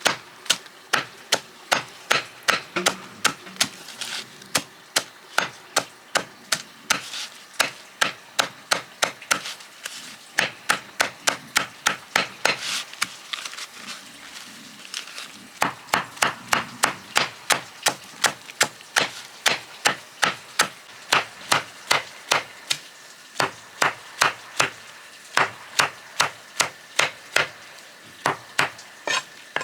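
Repeated sharp chopping strikes on wood, about two a second, with a pause of a second or so about halfway through and a brief one about three quarters in.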